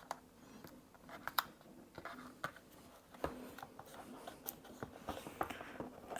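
Faint, irregular small clicks, taps and rubbing as a stick-on rubber foot is handled and pressed onto the bottom case of a MacBook Air A1466.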